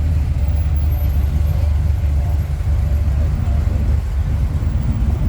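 Muscle car engine idling with a steady, deep rumble.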